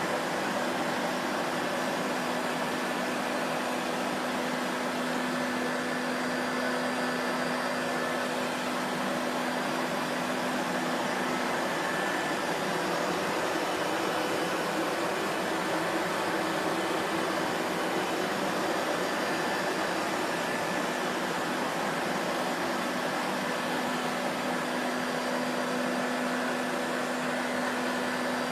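Vacuum cleaner running steadily, a constant rushing noise with a low hum. The hum fades about twelve seconds in and comes back about twelve seconds later.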